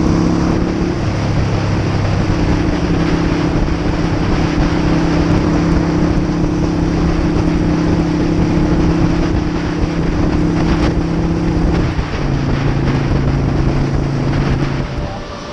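Harley-Davidson V-twin motorcycle engine running steadily at cruising speed, with heavy wind rush on the microphone. About twelve seconds in the engine note drops lower, and the sound fades near the end.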